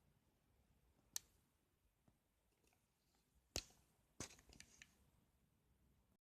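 A few sharp clicks over near silence: one about a second in, a louder one about three and a half seconds in, then a quick run of smaller clicks just after.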